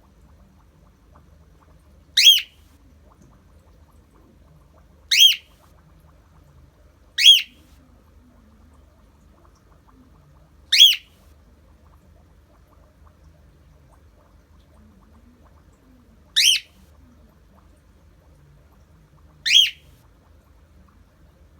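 Cockatiel giving its loud, shrill flock call, a single short screech repeated six times at irregular gaps of two to five seconds: the contact call of a bird calling for a companion it cannot see.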